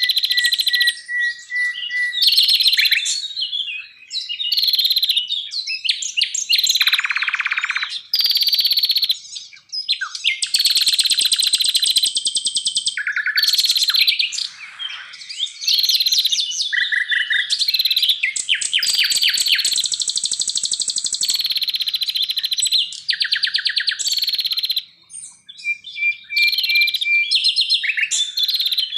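Songbirds singing a rapid, varied medley of loud whistles, trills and fast chip series, the phrases changing abruptly every second or two with brief gaps: a spliced bird-song tutor recording (masteran).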